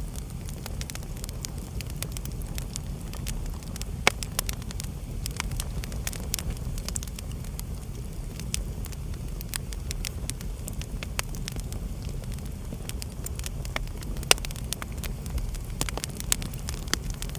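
Wood fire crackling in a fireplace: a steady low rumble of the burning under a dense scatter of small snaps and ticks, with two louder pops, about four seconds in and near the end.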